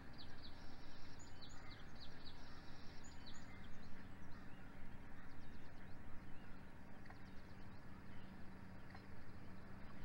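Small birds chirping faintly in the first few seconds and again briefly later on, over a steady low background hum and hiss.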